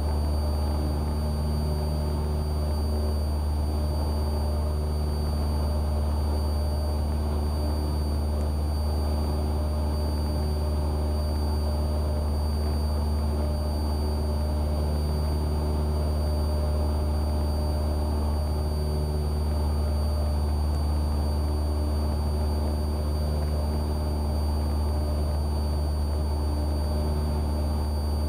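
Cessna 172R's four-cylinder Lycoming engine and propeller running steadily at climb power, a constant low drone with a faint steady high whine above it.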